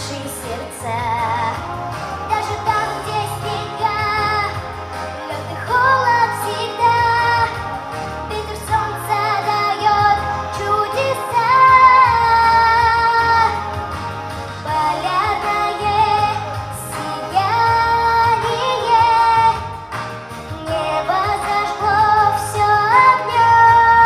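A female voice singing a pop song over a backing track with a pulsing bass line. She holds long notes with vibrato, several of them scooping up into the note.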